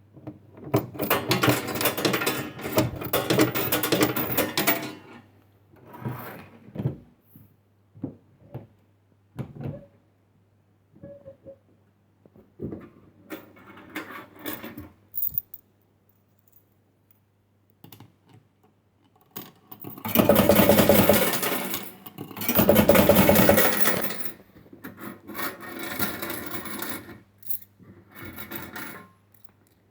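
A 1970s Funworld Stars & Stripes penny fruit machine in play, with bursts of mechanical rattling and clatter separated by single clicks. The loudest two bursts come close together about two-thirds of the way through. A steady low mains hum runs underneath.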